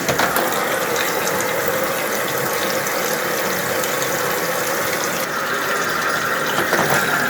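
Sharp ESX958 top-load washing machine running: a steady mechanical sound with water noise and a few light clicks.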